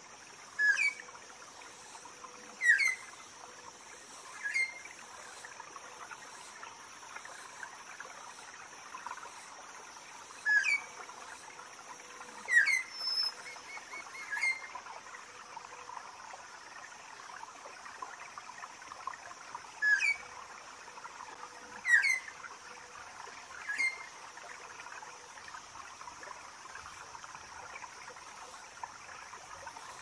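Jungle ambience: a bird gives three short chirping calls about two seconds apart, the phrase coming three times, over a steady hiss of running water and insects.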